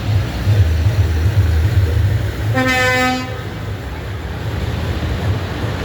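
Tractor engines running with a steady low rumble, and about two and a half seconds in a vehicle horn gives one short toot, lasting under a second.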